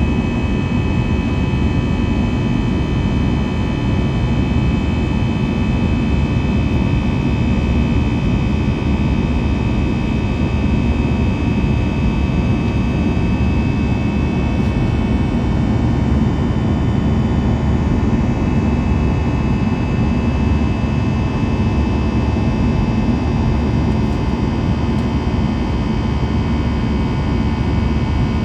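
Airbus A321 jet engines heard from inside the passenger cabin: a steady low roar of engine and air noise with a constant high whine over it.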